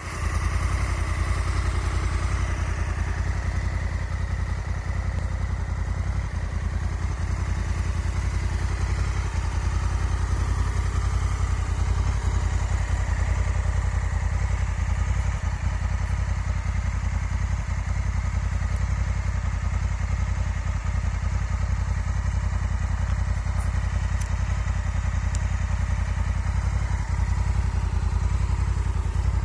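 Honda Africa Twin CRF1100L's parallel-twin engine idling steadily, an even low pulsing with no revs.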